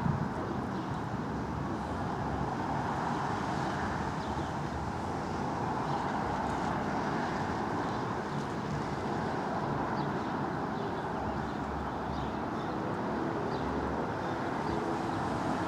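Steady outdoor background noise: an even, unbroken rush with no clear single source.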